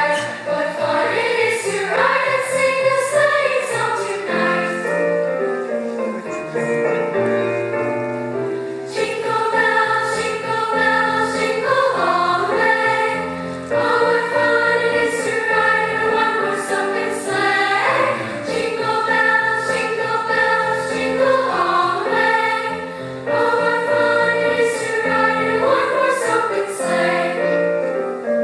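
School choir singing a holiday piece in several parts, with musical accompaniment.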